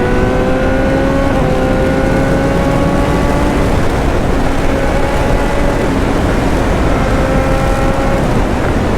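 BMW S1000R's inline-four engine pulling under way, its pitch slowly climbing, with heavy wind rush over it. The engine tone fades about four seconds in and comes back, again slowly rising, around seven seconds.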